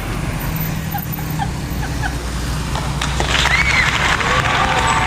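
A vehicle engine running with a steady low drone, with short arched tones rising and falling over it from about three seconds in.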